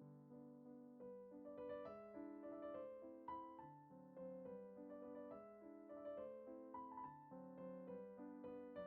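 Soft background piano music, gentle notes played in a slow, even flow.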